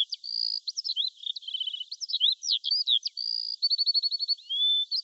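Songbirds singing: a busy run of quick chirps and whistled notes sliding up and down. A fast rattling trill comes twice, in the middle and a little later, and a clear rising whistle comes near the end.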